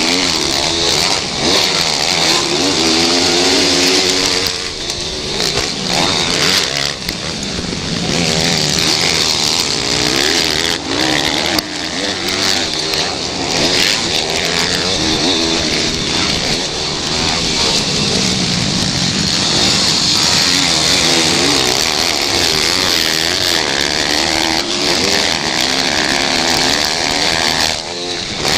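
Pit bike engines racing: more than one small motorbike engine revving hard, rising and falling in pitch as the riders accelerate, shift and back off.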